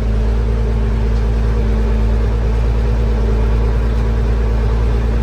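180-horsepower Case IH tractor engine running steadily, heard from inside the cab: a loud, even low drone with a steady hum.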